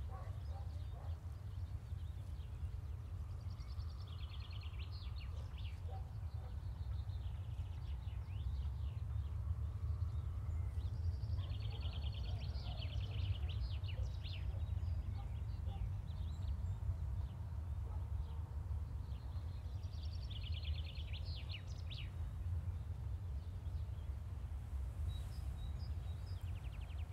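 Outdoor ambience: a steady low rumble, with a small bird singing short, quick trilled phrases about every eight seconds.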